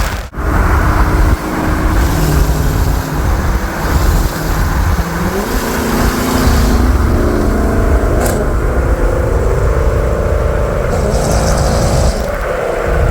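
Straight-piped, cat-deleted 5.7L Hemi V8 exhaust running loud with a deep rumble, its pitch stepping up and down as the revs change. There is a brief break just after the start.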